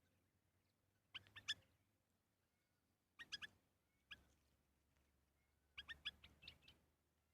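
Bird chirping in three short clusters of sharp, high chirps, with quiet between the clusters.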